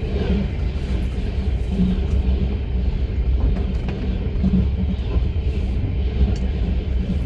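Steady low rumble of a moving passenger train's running gear, heard from inside a platzkart sleeping carriage, with a few faint clicks.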